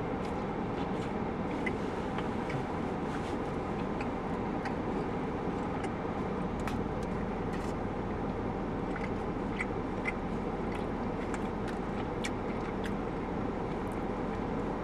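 Steady low hum and hiss of background noise, with scattered faint small clicks of someone chewing a mouthful of chili cheese hot dog.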